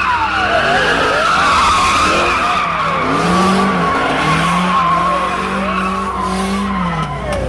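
Ford Mustang police car drifting: its tyres squeal in one long, held screech while the engine revs rise and fall several times.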